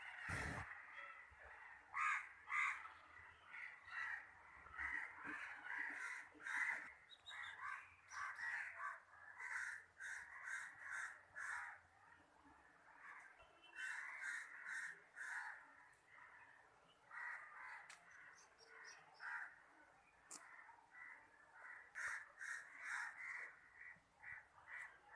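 Birds calling: many short, harsh calls repeated throughout, some overlapping one another.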